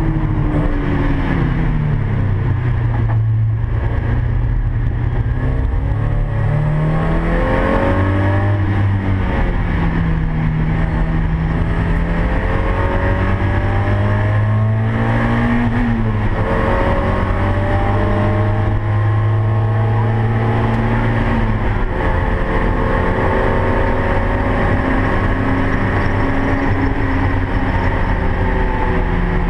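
Mazda MX-5's four-cylinder engine heard from inside the cabin while driven hard: revs fall near the start, then climb in long rising pulls, dropping back sharply twice at gear changes, over constant road and wind noise.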